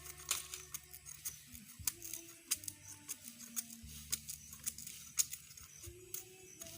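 Irregular sharp clicks and snaps, several a second, over a low hum.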